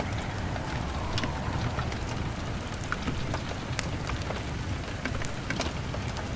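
Steady rain pattering on a window pane, with a log fire giving scattered sharp crackles throughout.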